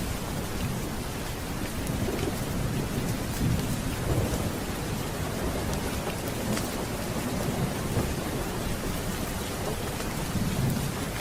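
Steady rain with rolling thunder rumbling low, swelling a few seconds in and again near the end, with scattered small sharp ticks over it.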